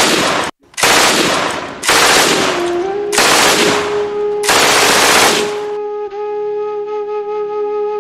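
Performance soundtrack: five loud bursts of gunfire sound effects, each about a second long, with a solo flute melody entering under them and taking over alone for the last couple of seconds.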